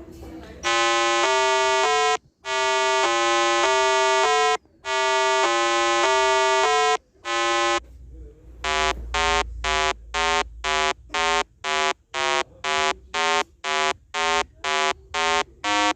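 Harsh electronic buzzer-like tones, as from a square-wave synth: a few long held notes that step up and down in pitch, then from about 8 seconds in a run of short beeps, about two a second, at changing pitches.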